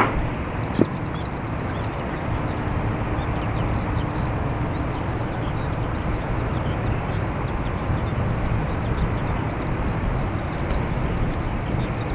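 Steady low rumble of a Boeing 787-8 airliner and its ground equipment during push-back from the stand. Two short clicks come right at the start.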